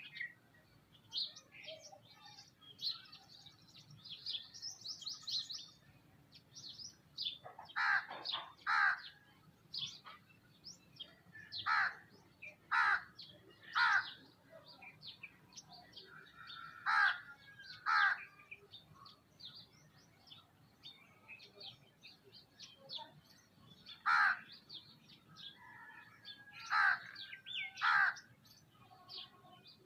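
Crows cawing, the loud calls mostly coming two at a time every few seconds, over a constant chatter of small birds chirping.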